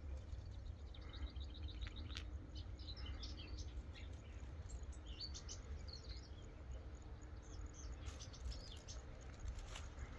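Small birds chirping: quick runs of short, high chirps and scattered calls, with a low steady rumble underneath.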